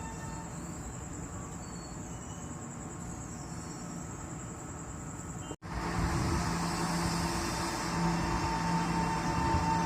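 Taiwan Railways train noise: a steady, moderate rumble with a faint high whine. It cuts off abruptly about five and a half seconds in and comes back as a louder, busier train running sound.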